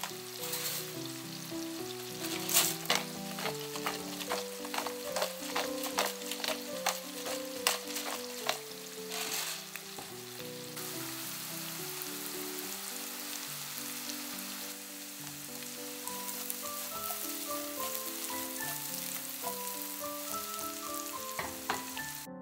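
Diced bacon and mushrooms frying in a nonstick pan: a steady sizzle with frequent sharp pops of spattering fat over roughly the first half. It then settles into an even hiss as the mushrooms give off their water.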